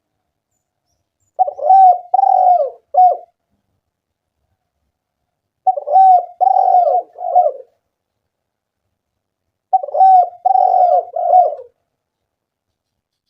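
Spotted dove cooing: three phrases about four seconds apart, each a quick run of low coos.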